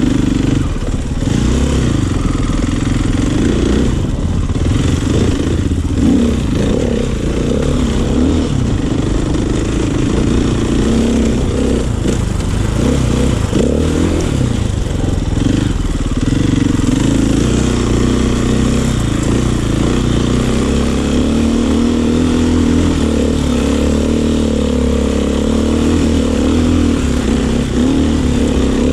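Dirt bike engine running, its pitch rising and falling as the throttle is worked.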